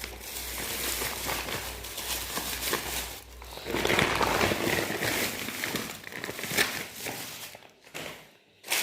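Shopping bag rustling and crinkling as groceries are pulled out of it, with a couple of sharp knocks, the last near the end.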